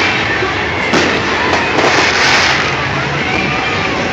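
Fireworks display: a dense run of crackling with a few sharp bangs, the clearest about a second in.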